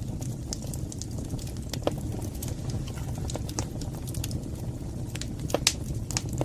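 Wood fire burning in a fireplace: a steady low rumble of flames with irregular sharp crackles and pops, a couple of louder pops about two seconds in and near the end.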